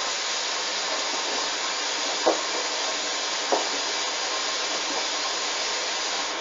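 Hoover washing machine taking in water for its first rinse: a steady rushing hiss of water through the inlet valve, filling to a high water level because the load is over-sudsed after a suds lock. Two small knocks come about two and three and a half seconds in, and the hiss cuts off suddenly at the end as the valve shuts.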